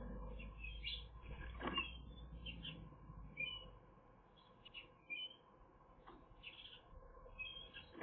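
Faint, scattered high bird chirps and squeaks, short and irregular, with a couple of faint clicks.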